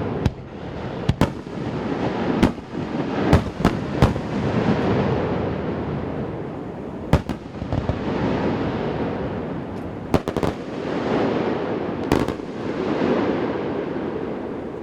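Aerial fireworks shells bursting in a valley: about a dozen sharp bangs at uneven intervals, some in quick clusters, over a continuous rolling rumble of booms echoing off the surrounding mountains.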